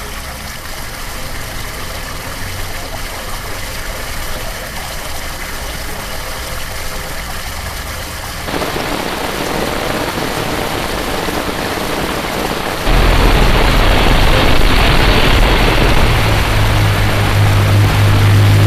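Heavy rain falling, a steady hiss. It jumps louder suddenly about eight seconds in and again about thirteen seconds in, with a low rumble underneath in the loudest stretch, where rain runs off a corrugated roof.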